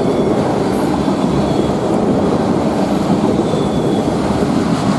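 Norfolk Southern freight train's cars rolling past at close range: a steady, loud rumble of steel wheels on the rails, with a few faint, brief high wheel squeals.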